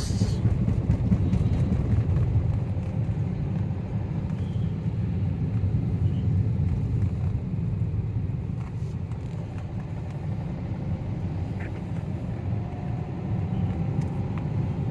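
Car driving along a road, heard from inside: a steady low rumble of engine and tyres.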